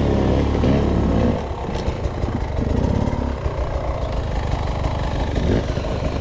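Dirt bike engine running at low speed. It holds a steady note for about the first second, then drops a little and turns uneven and choppy.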